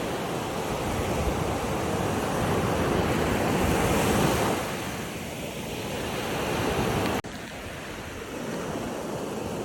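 Ocean waves washing in, swelling to a peak about four seconds in and then easing back. The sound drops out for an instant about seven seconds in, like a splice in the recording, and carries on quieter.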